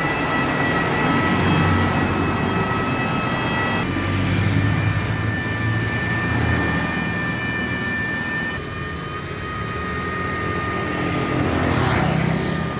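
Electric car polishing machine running with a steady high whine over a low rumble. The pitch of the whine shifts abruptly twice.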